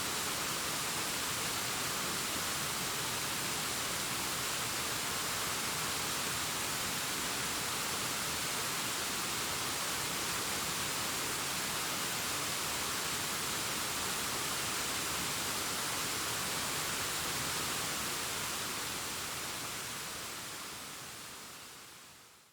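Distant waterfall cascading down a rockface: a steady, even rush of water that fades out near the end.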